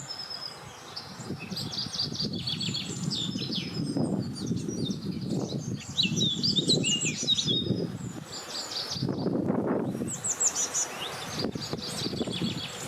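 Several songbirds chirping and trilling over one another, with wind gusting low underneath, swelling about four seconds in and again near ten seconds.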